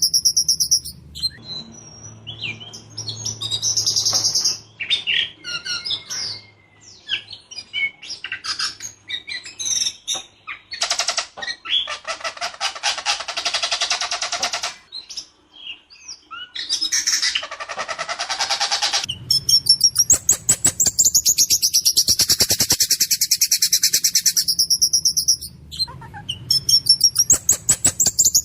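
White-rumped shama singing: varied whistled phrases broken by long, fast runs of rough, rapidly repeated notes. The rapid runs take over and run almost without pause through the second half.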